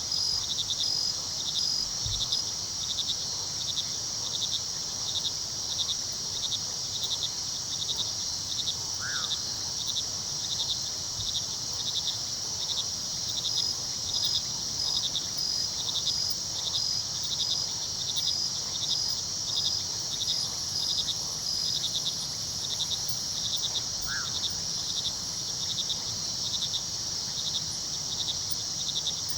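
A chorus of crickets at night: steady rhythmic chirping, about three pulses a second, over a continuous high insect trill. Underneath runs the low, even rush of a river. A few short, faint calls rise out of it now and then.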